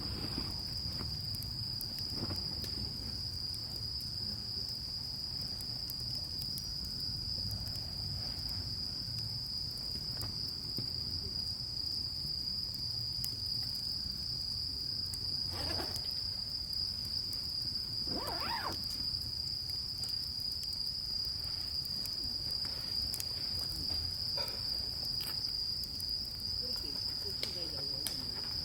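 A chorus of insects trilling in one steady, continuous high-pitched tone, over a low rumble. Two brief faint sounds come through a little past halfway.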